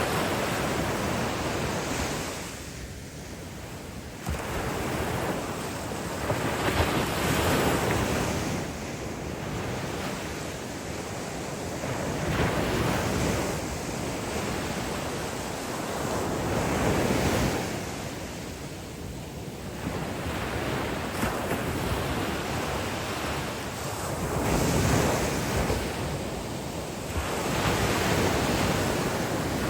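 Ocean surf breaking on a beach: a steady wash of waves that swells and falls back every four to six seconds.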